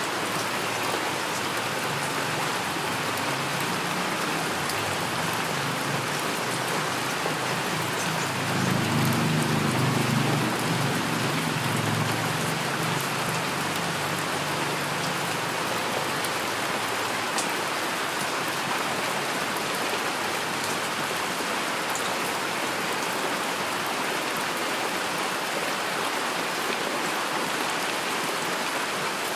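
Steady heavy rain falling, a dense even hiss with scattered drop ticks. A low rumble swells and fades again in the middle.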